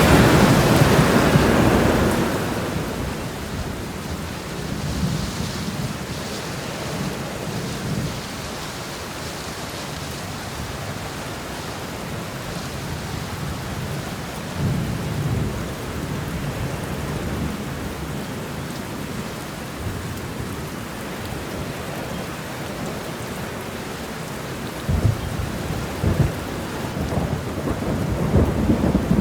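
Steady rain falling, with rolls of thunder: a loud rumble dying away over the first two seconds, a shorter one about halfway, and more rumbling over the last few seconds.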